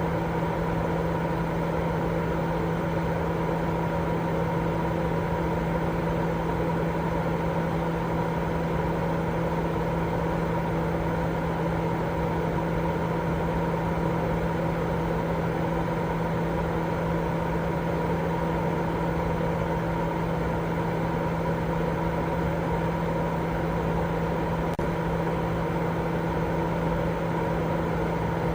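Steady baby-sleep white noise: an even rushing hiss carrying a constant low hum and a fainter higher tone, with no change in level or pitch.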